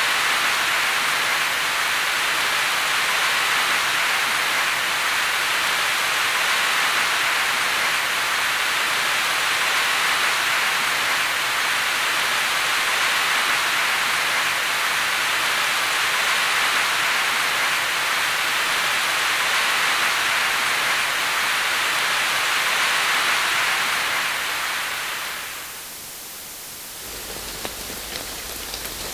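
Rain recording: an even, steady hiss of rain that fades out near the end. A second, quieter rain recording then begins, with separate drops ticking.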